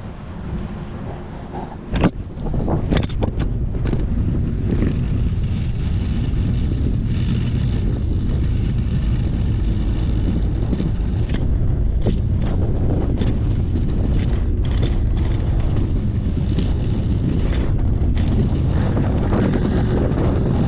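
A watercraft engine running steadily, with wind on the microphone. A few sharp knocks come about two and three seconds in, and then the rumble settles louder.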